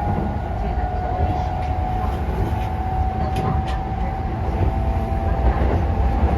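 Keisei 3000 series electric train running at speed, heard from inside the car: a steady low rumble of wheels on rail with a constant whine and a few faint clicks.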